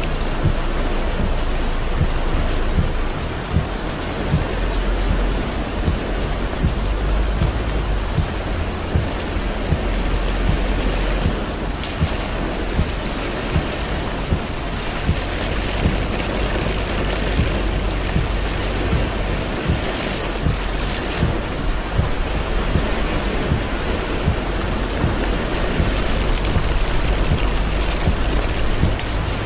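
Torrential rain drumming on a car's roof and windshield, heard from inside the cabin. It is a dense, steady hiss full of rapid small knocks from the drops, over a deep low rumble that swells and eases.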